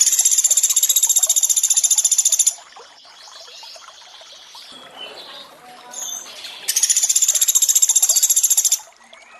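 Rapid, high-pitched pulsed trills of a pelatuk beras woodpecker, in two bursts of about two seconds each: the 'tembakan' call used to train a sogon. Water trickles faintly between the bursts.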